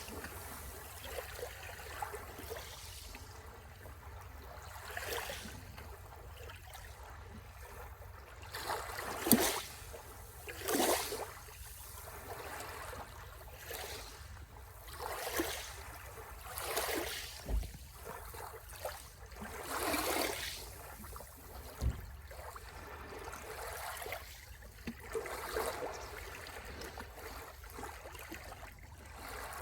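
Sea waves washing onto the shore, each wash rising and falling away at uneven intervals of one to three seconds, over a steady low rumble.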